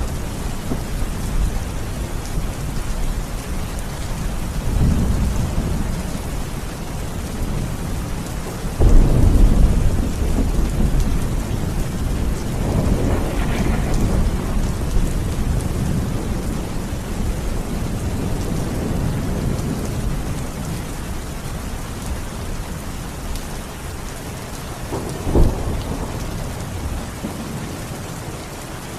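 Steady heavy rain with rolling thunder: low rumbles swell several times, the loudest breaking suddenly about nine seconds in, and a short sharp crack of thunder comes near the end.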